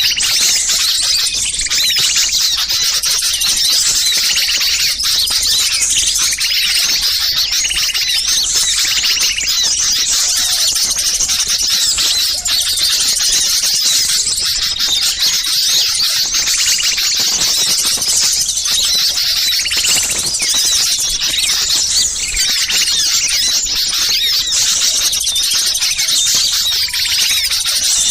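Dense chorus of many small songbirds calling at once, a continuous mass of overlapping high chirps and squeaky notes. It is the agitated, noisy calling that bird trappers play as a lure to draw wild small birds in.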